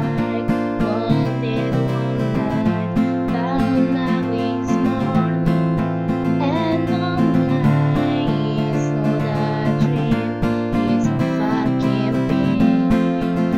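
Music: an acoustic guitar strummed steadily, playing a song.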